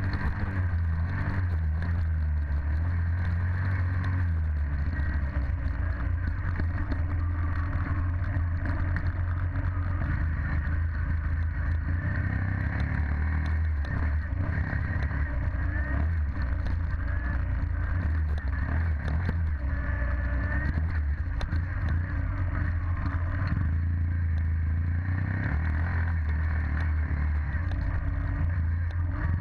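Dirt bike engine running continuously, its pitch shifting in the first couple of seconds and then holding fairly steady.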